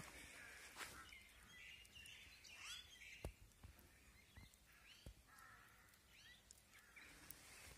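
Quiet snowy outdoor ambience with small birds chirping: short, scattered calls through the middle, plus a few faint low thumps.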